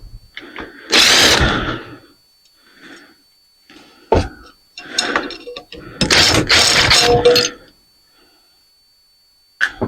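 Metal parts of a ceiling fan being worked loose by hand: a series of clanks, scrapes and knocks, with a sharp knock about four seconds in and a longer clattering stretch with a faint metallic ring a little past the middle.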